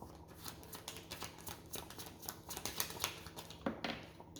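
A deck of tarot cards being shuffled by hand: a quick, irregular run of soft clicks and flicks, with a sharper snap near the end.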